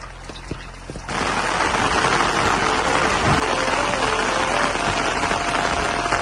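Heavy rain falling, a dense steady hiss that comes in suddenly about a second in after a few faint clicks.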